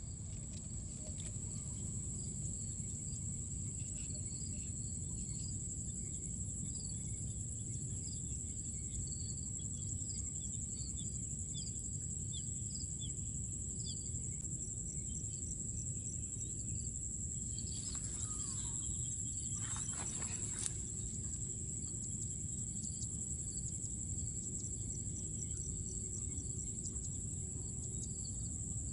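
Insects, crickets or similar, trilling steadily in one continuous high tone, with scattered short bird chirps and a low steady rumble beneath. About two-thirds of the way through comes a brief louder sweep with a couple of sharp knocks.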